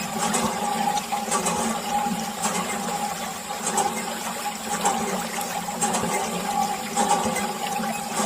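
Small DIY toy water pump running, with water pouring and splashing steadily over a faint motor hum.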